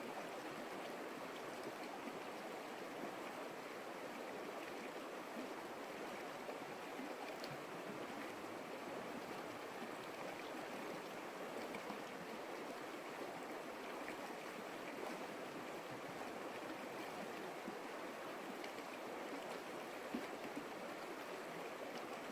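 Steady rush of water from a flowing creek.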